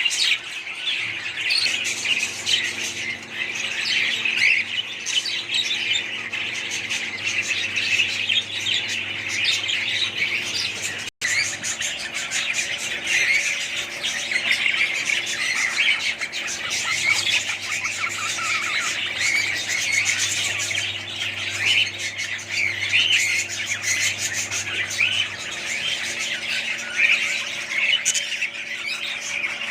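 A flock of small birds chirping and squawking all at once in a dense, unbroken chatter. The sound drops out for an instant about eleven seconds in.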